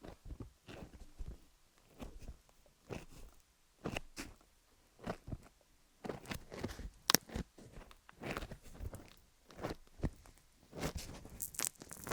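Vaseline-slicked fingers tapping and rubbing on a rhinestone-covered dummy-head microphone, making irregular sticky, crackling clicks close to the mic. One sharper click comes about halfway through, and the crackling grows denser near the end.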